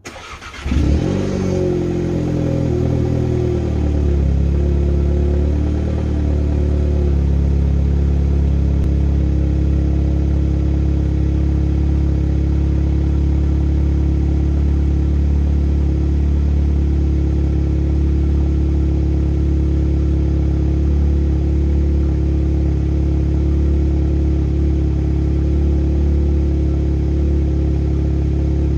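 Seat Ibiza Cupra's 1.8 TSI turbocharged four-cylinder petrol engine, exhaust run without its middle silencer, starting from cold: a brief crank, then it catches with a loud flare about a second in. It then drops over the next few seconds into a steady fast cold idle.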